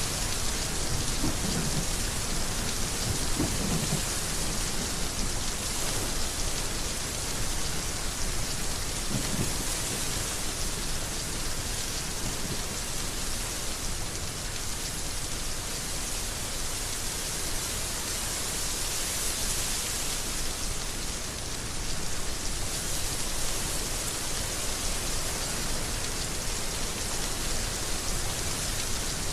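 Heavy rain falling steadily, with a few short low rumbles within the first ten seconds.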